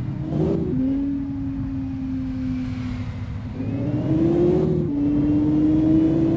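Sports car engine running under way, its note holding steady, then climbing as it accelerates, dropping sharply at a gear change about three-quarters through, and rising again.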